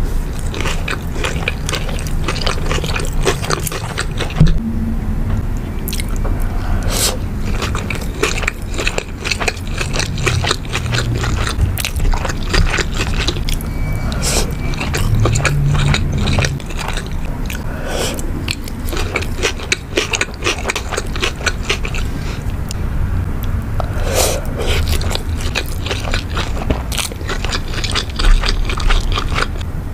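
Close-miked mouth sounds of someone eating sushi rolls: biting and chewing, with many short wet clicks and crackles.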